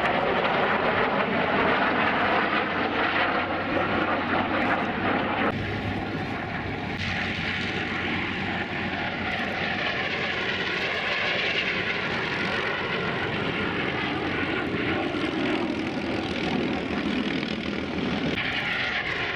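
Vintage jet fighter's turbojet engine running steadily, a continuous rush with a whine whose tones change about five seconds in.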